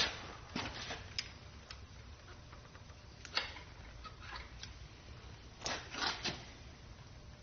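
Scattered sharp metal clicks and clinks of tools and parts being handled on a Ford 351W V8 short block during teardown, with a cluster of clinks about six seconds in.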